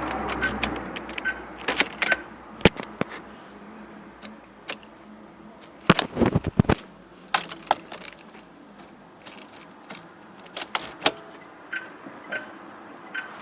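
Irregular clicks and light metallic jangling, like a bunch of car keys being handled, busiest about six to seven seconds in. A faint high beep repeats about twice a second near the start and again near the end.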